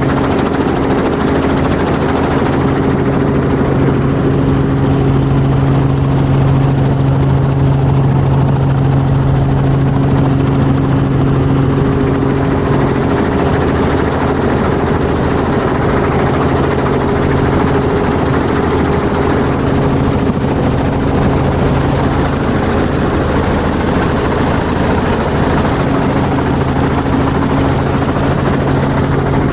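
Helicopter running steadily, heard from on board: a constant loud rotor and engine noise with a low, even hum that does not change.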